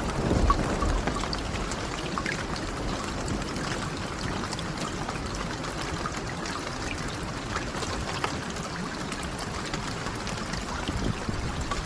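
Steady rain with scattered small crackles and pops from a wood fire. A low rumble of thunder dies away in the first second.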